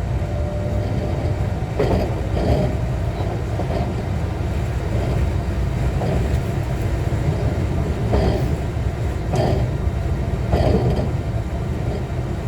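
Running noise inside a JR West 125-series electric railcar: a steady low rumble of wheels on rail, with sharp clacks every second or few, some in quick pairs, as the wheels pass rail joints.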